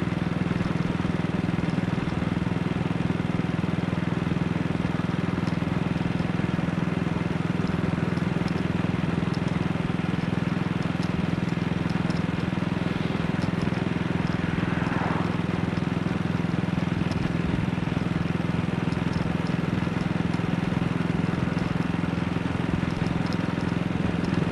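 AJS Model 8 single-cylinder four-stroke motorcycle engine running steadily at an even, unchanging speed, keeping its oil circulating.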